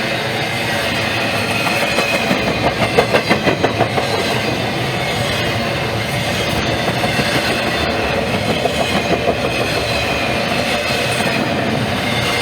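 A Norfolk Southern freight train rolling past, its cars making a steady rumble. The wheels clack in quick runs over rail joints, once a couple of seconds in and again past the middle.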